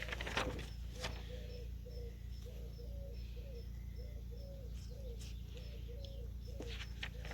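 A bird calling in the background with a short, arched, cooing note repeated about twice a second. Brief rustling sounds come near the start and again near the end.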